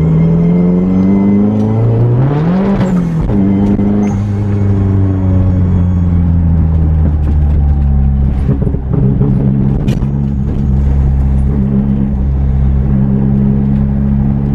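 Datsun Z car's engine through its freshly mounted exhaust, heard under way: it revs up with a climbing pitch, drops back sharply a little under three seconds in, then runs at a steady note.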